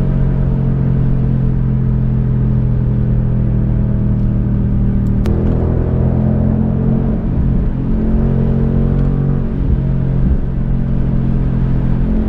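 Ford Mustang GT's 5.0 V8 running through an MBRP race cat-back exhaust, a steady low drone at highway speed. The engine note shifts slightly about five seconds in, with a brief click, and wavers a few times after that.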